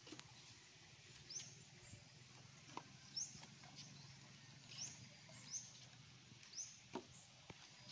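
Faint, short high chirps of a small bird, repeated about six times a second or so apart, with a few faint clicks in between.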